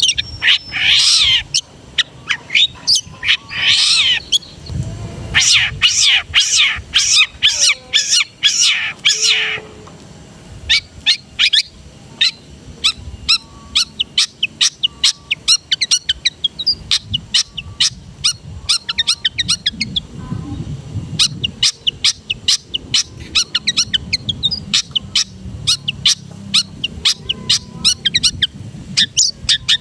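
Long-tailed shrike (cendet) singing a varied, rich song made up of sharp, high chirps. In the first ten seconds the notes come in dense quick runs; after that they come as single chirps at a steady pace of several a second.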